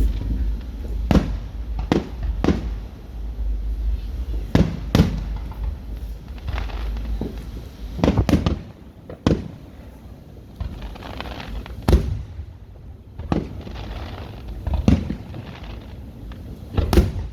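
Fireworks display: aerial shells bursting one after another at irregular intervals, a dozen or so sharp booms, each trailing off into a low rumbling echo, with a quick double bang near the end.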